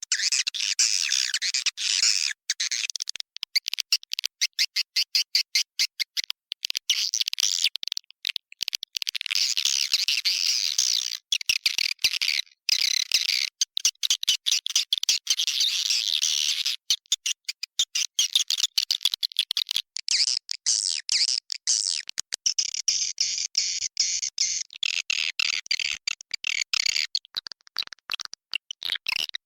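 Swiftlet lure call ('inap' roosting call): a dense, rapid, high chittering twitter of swiftlets, broken by many very short gaps, played to draw swiftlets into a bird house.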